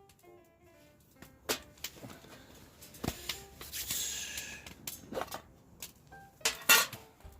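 Several sharp knocks and short scraping noises over faint background music, the loudest pair of scrapes near the end.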